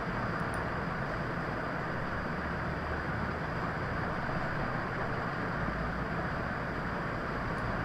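Steady, even background noise with no speech, strongest in the low and middle range, and a faint high steady tone above it.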